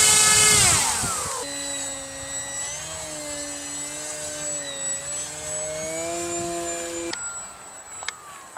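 Radio-controlled model warplane engine running. Its pitch drops as it passes about a second in, then a steadier drone holds and cuts off abruptly about seven seconds in.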